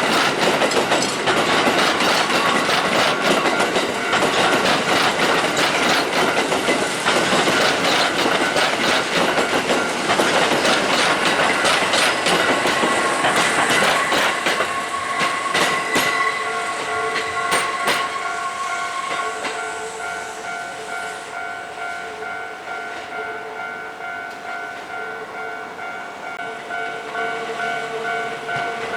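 A Kintetsu electric train passes over the level crossing, its wheels clattering over the rail joints in a rapid string of knocks for most of the first twenty seconds before it fades away. The crossing's warning alarm rings throughout and is still sounding after the train has gone.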